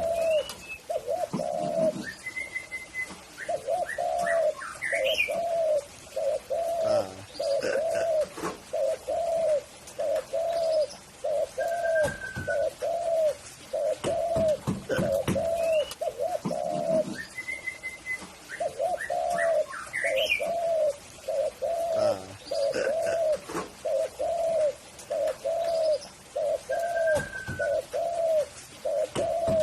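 Spotted dove (tekukur) cooing: a long run of low, evenly repeated coo notes, about one and a half a second, with short pauses between phrases.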